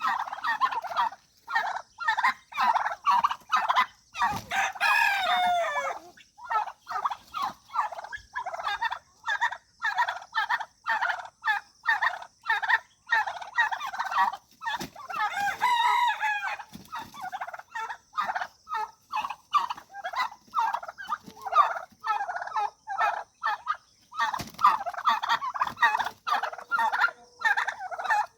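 Turkey gobbling over and over in rapid warbling bursts, with a rooster crowing twice, about four seconds in and again around fifteen seconds in.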